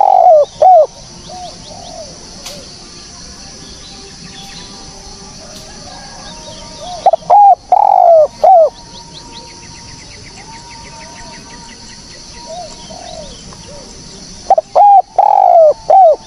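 Spotted dove cooing: three loud phrases about seven seconds apart, each a few short coos and a longer falling one, with fainter coos between them. A steady high-pitched hiss runs behind.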